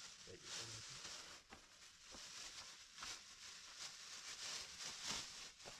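Near silence: faint background hiss with a few soft, faint ticks.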